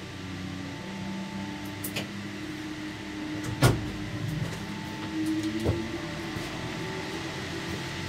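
Cable car gondola running with a steady mechanical hum and whine, with a sharp loud clunk about three and a half seconds in and a lighter knock about two seconds later.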